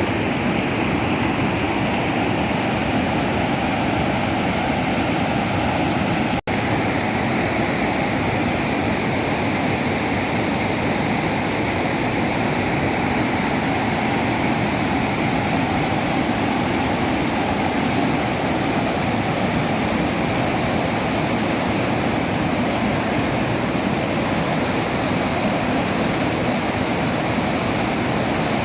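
Waterfall rushing steadily, a dense even roar of falling water, with a split-second dropout about six seconds in.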